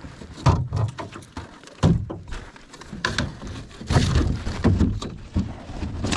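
Irregular knocks and thumps in a small boat, about one a second, as a large northern pike is handled aboard.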